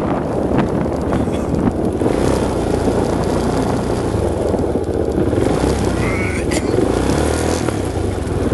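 Supermoto motorcycle engine running steadily while the bike is ridden.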